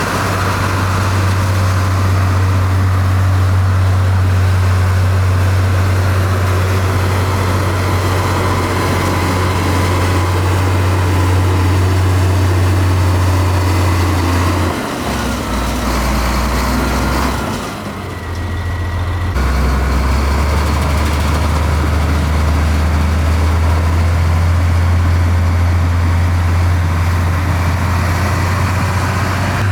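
Heavy diesel construction machinery running steadily with a low, loud drone. The drone shifts abruptly in pitch and level about halfway through and again a few seconds later.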